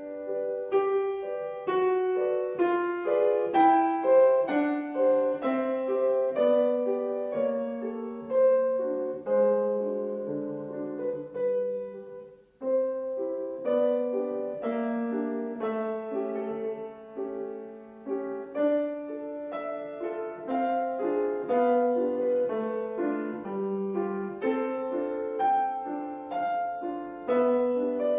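Piano playing a classical piece, a steady flow of single notes and chords, with a short pause about halfway through.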